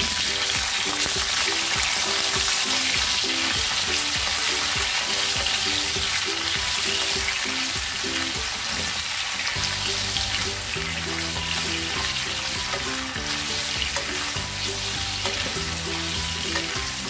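Cubed potatoes and carrots sizzling in hot cooking oil in a pan as a wooden spatula stirs them. The sizzle is loudest just after they go in and eases slightly later on.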